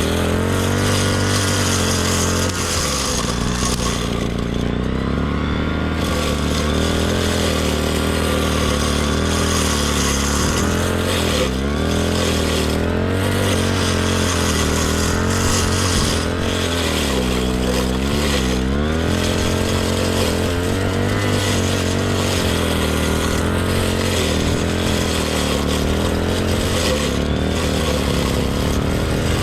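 Two-stroke brush cutter engine running under load while cutting grass, its pitch wavering up and down and dipping briefly a little past the middle.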